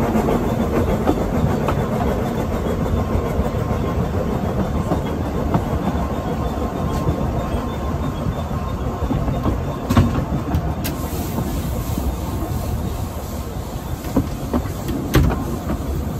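Narrow-gauge train running on the track: a steady rumble with a few sharp knocks, the loudest about ten seconds in and another near the end.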